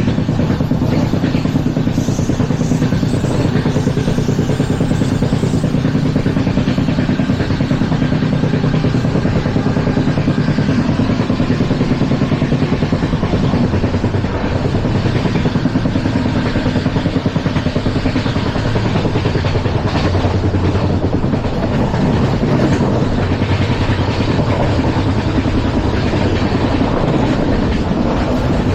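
LHB passenger coach running at speed: a steady, loud rumble of wheels on the rails.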